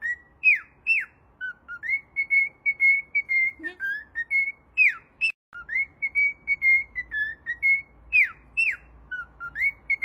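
A whistled tune in clear, pure notes: a run of short steady notes followed by quick downward swoops, the same phrase repeating about every four seconds.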